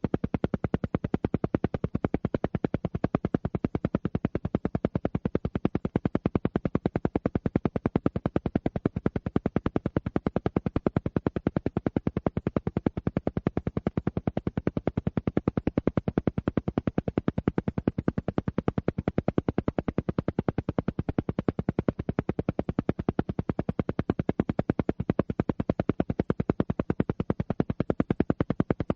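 Alpha-frequency isochronic pulse track: rapid, evenly spaced pulses of sound, about ten a second, repeating at an unchanging rate and level.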